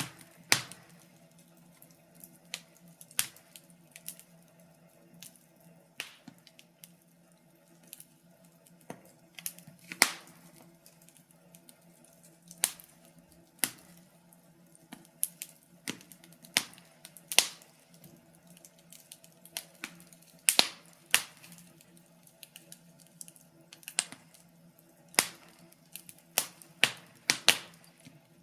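Wood fire crackling: irregular sharp pops and snaps, one or two a second and unevenly spaced, over a faint low steady hum.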